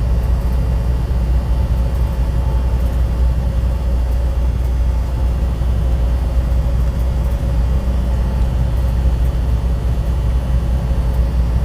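Semi truck's engine and road noise heard inside the cab: a steady low drone with a faint, even hum above it.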